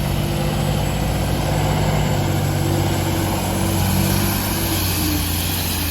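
Heavy diesel engine of earthmoving machinery running steadily, its pitch shifting slightly partway through.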